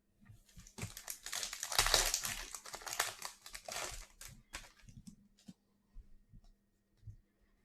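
Crinkling of a plastic trading-card pack wrapper, loudest in the first half, being torn open and crumpled. It is followed by scattered soft clicks of cards being handled.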